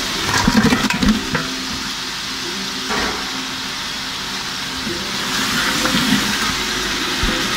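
Masala sizzling and frying in a large metal pot as pieces of fried chicken are stirred through it with a wooden spoon, with a few knocks near the start and one a few seconds in.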